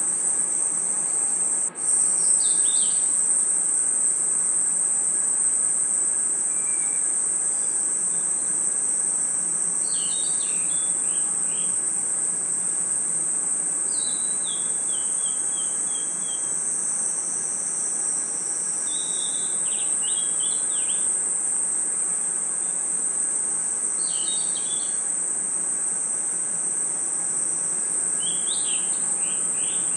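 Night chorus of crickets and other insects: a steady, high-pitched trill, with short clusters of higher chirping calls breaking in every few seconds, one of them a falling series. The sound briefly drops out a little under two seconds in.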